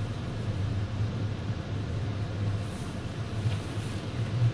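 Car interior noise while driving on a snow-covered road: the engine's steady low hum under an even rush of tyre and road noise.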